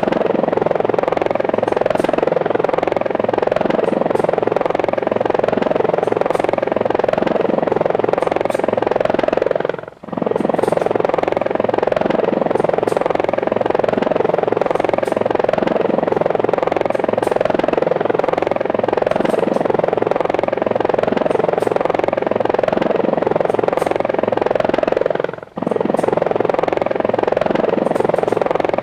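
Helicopter rotor and motor noise, a steady whirring drone. It drops out briefly about ten seconds in and again near the end.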